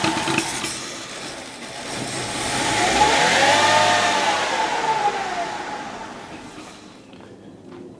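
Mercedes-Benz C240's V6 engine revved once, pitch and loudness rising smoothly and falling back over about three seconds, then the engine sound dies away near the end. The car idles rough, a fault later traced to a failing fuel pump.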